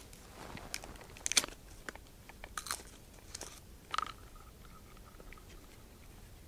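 Scattered sharp crunching and clicking handling sounds, five or six in the first four seconds, then a faint thin tone lasting about a second and a half.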